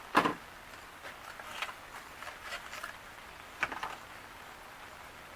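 A sharp knock about a quarter second in, then scattered light clicks and taps, over a steady patter of rain.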